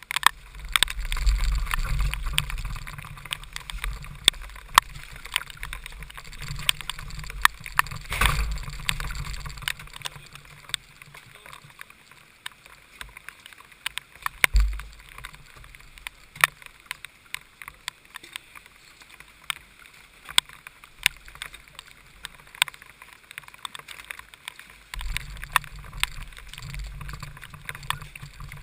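Heavy rain and water spray hitting an onboard kart camera: many sharp drop clicks over a steady hiss, with a low wind rumble that fades away about ten seconds in and returns near the end.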